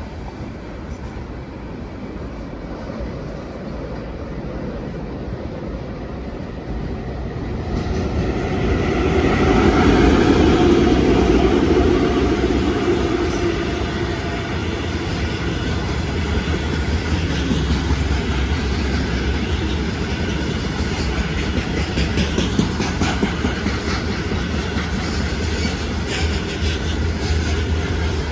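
VL15 electric locomotive hauling a freight train approaches and passes, getting much louder about a third of the way in with a steady hum. Freight wagons then roll by, wheels clicking over rail joints.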